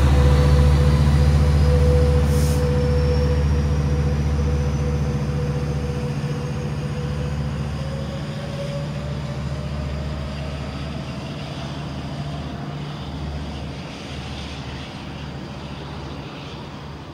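Commuter-train diesel locomotive running under power as it pulls its train away. A steady low engine drone and a thin whine that slowly rises in pitch fade as the train draws off.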